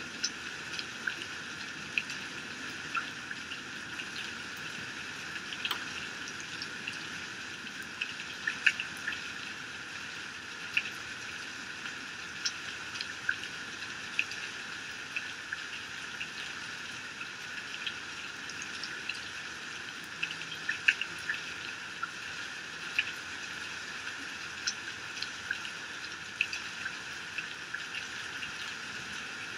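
Heavy rain falling and pouring off a roof edge: a steady hiss of rain with many sharp, irregular drop ticks and splashes over it. No thunder is heard.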